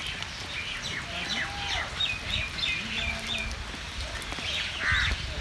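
Several birds chirping and calling over one another, with a quick run of repeated notes about two seconds in, over a low rumble.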